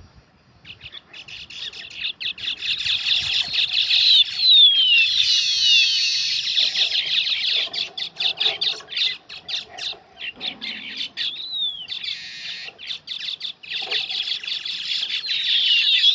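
Weaver birds chattering together: a dense, rapid chatter of many short calls with high falling whistles, building up about a second in.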